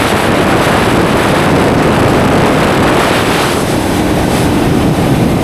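Royal Enfield GT650's 648 cc parallel-twin engine running on the move, mixed with steady wind noise on the microphone.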